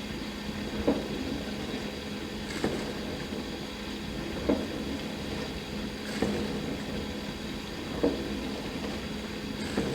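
Dishwasher running a wash cycle: a steady pump hum with a short swish of water recurring about every two seconds.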